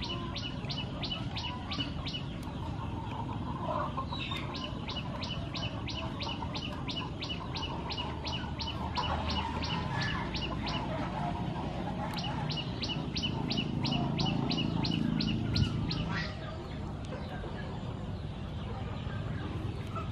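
A bird calling a fast, even run of short, high chirps, about three a second, in long trains broken by brief pauses, over a low outdoor rumble.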